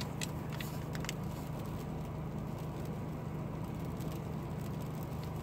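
Steady low hum of a car idling, heard from inside the cabin with the heater running. A few faint paper crinkles in the first second, from receipts being handled.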